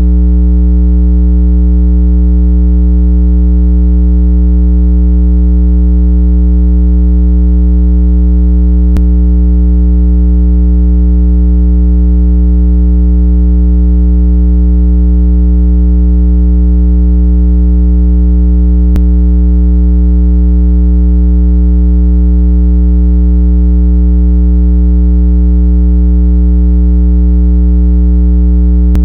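A loud, unbroken low electronic tone with a stack of steady overtones: a 165 Hz water-eject sound, played so the speaker vibrates water out of AirPods or earbuds. Faint clicks come about 9 and 19 seconds in.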